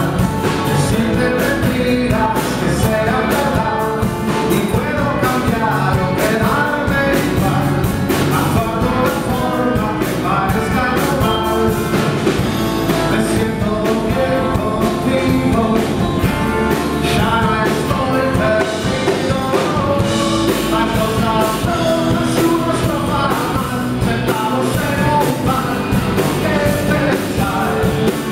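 Live rock band playing a song: drums, guitars and a singing voice.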